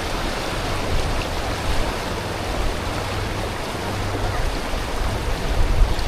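Steady rushing of a jungle river's flowing water.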